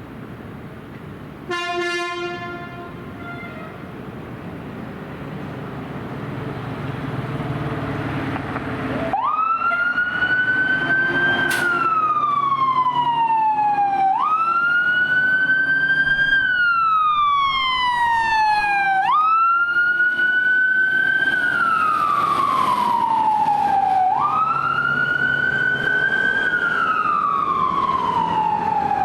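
A 2021 Pierce Arrow XT fire engine responding: a short horn blast about two seconds in, its engine getting louder as it pulls away, then its siren starts about nine seconds in and wails, each cycle jumping up, climbing, then falling slowly, about every five seconds.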